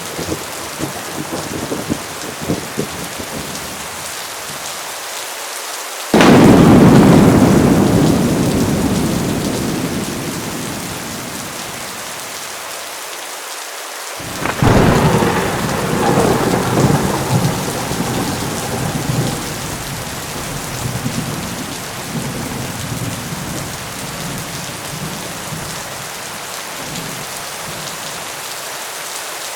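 Heavy rain falling steadily through a thunderstorm. A sudden loud thunderclap about six seconds in rumbles away over several seconds, and a second peal of thunder rolls and rumbles about halfway through.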